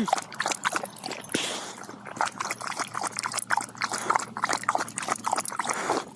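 A dog panting hard in quick, irregular breaths, worn out and overheated from chasing a ball.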